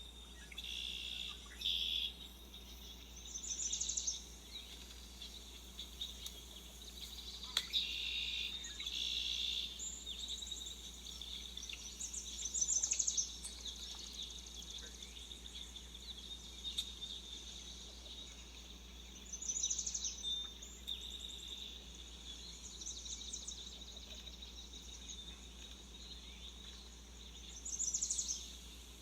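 Birds chirping outdoors: short, high calls come every few seconds over a faint steady background.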